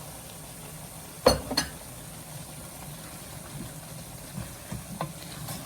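Cooking in a pan over a steady low hum. A little over a second in, two sharp clanks of a utensil against the pan, and a lighter tick near the end.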